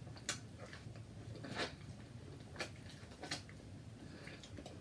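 Close-miked eating sounds: soft wet mouth clicks and smacks of someone chewing seafood, four sharper ones spaced about a second apart.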